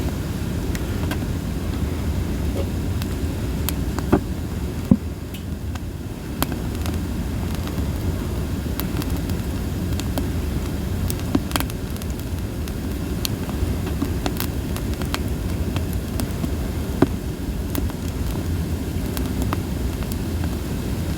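Campfire of split sawtooth oak (kunugi) firewood burning with a steady low rush, sharp crackles and pops scattered irregularly through it, and a few louder snaps.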